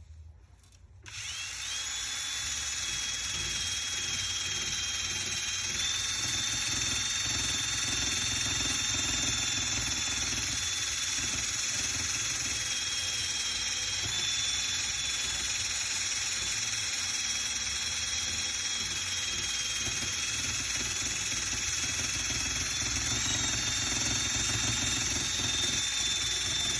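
Electric drill with a sanding pad attachment running steadily, sanding old paint off a metal vehicle hood. It starts about a second in and holds a high whine that shifts slightly in pitch now and then as the pad moves across the metal.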